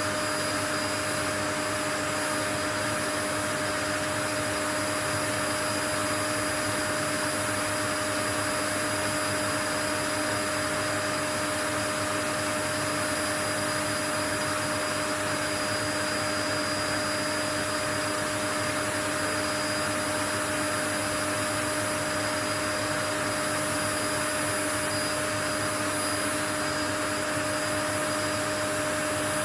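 Steady white noise: an even, unchanging rush with a faint constant hum and high whine running through it.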